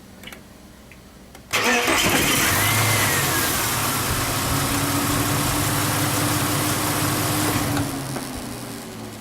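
Ford AU2 engine starting about a second and a half in, with a loud mechanical noise over the engine that lasts about six seconds and then dies away as it settles to idle. The owner reports that this noise comes on every startup, even when restarting the engine warm after a drive.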